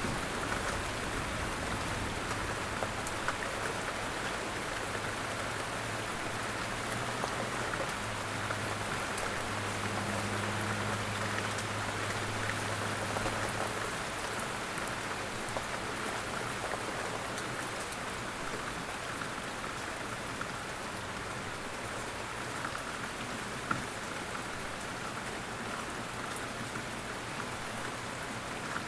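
Steady rain falling on a surface, an even hiss scattered with individual drop patters, over a low rumble that fades about halfway through.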